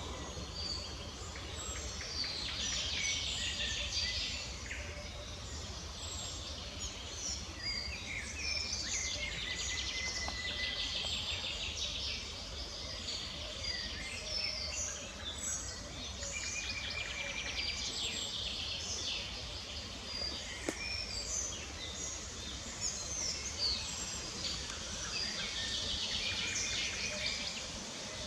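Several small songbirds chirping and trilling at once, over a low steady rumble.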